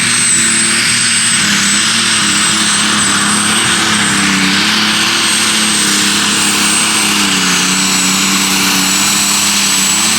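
Super/pro stock pulling tractor's turbocharged diesel engine running flat out through a pull, with a loud high turbo whistle held steady over the engine's drone.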